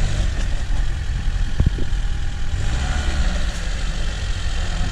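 Lada Niva's engine running at low revs with slight rises and falls in pitch. A couple of short knocks come about a second and a half in.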